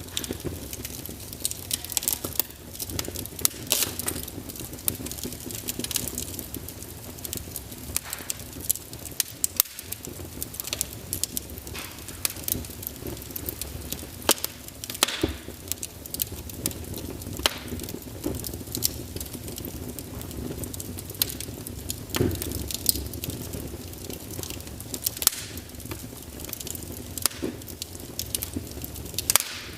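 Wood fire burning in a fireplace: irregular sharp crackles and pops over a steady low rumble and hiss of the flames.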